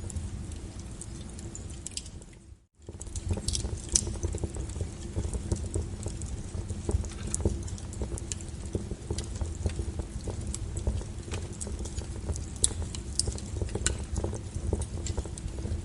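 Wood fire crackling, with irregular sharp pops over a low steady rumble. The sound drops out briefly about two and a half seconds in, then picks up again.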